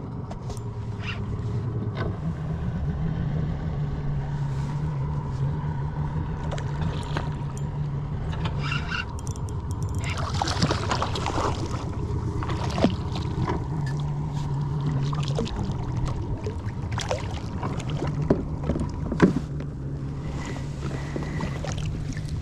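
Electric kayak motor humming steadily, with scattered clicks and a burst of splashing about ten seconds in.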